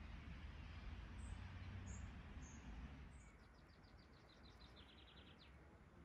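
Faint birdsong: a few short high chirps, then a rapid series of repeated notes lasting about two seconds, over a low rumble that fades about halfway through.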